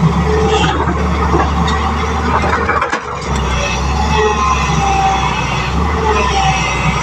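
Heavy diesel road-construction machinery running steadily, with a short break about three seconds in.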